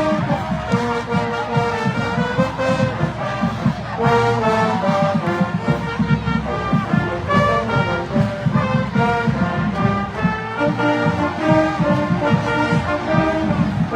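Marching band playing its fight song at full volume: brass holding and moving through sustained melody notes over a steady, rapid beat of marching drums.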